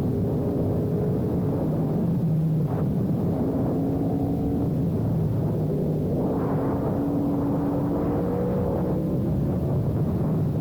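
Sport bike engine under way, its pitch climbing as it pulls and dropping back at gear changes or on closing the throttle, over heavy wind rumble on the microphone.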